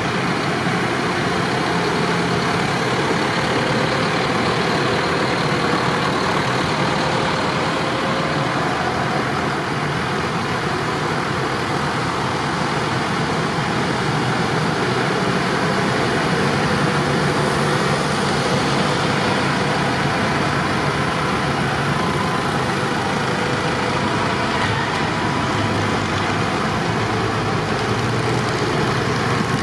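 Steady, unbroken vehicle engine and running noise, even in level throughout.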